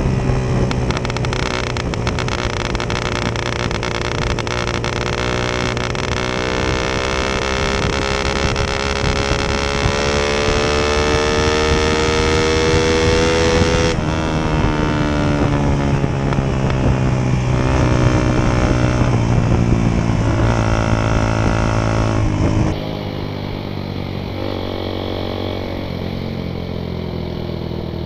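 Suzuki Satria FU 150's single-cylinder engine running through a gutted stock CKD exhaust (bobokan) as the bike accelerates: the pitch climbs steadily, drops suddenly at a gear change about halfway, then climbs again. Near the end it turns abruptly quieter and the engine note falls as it slows.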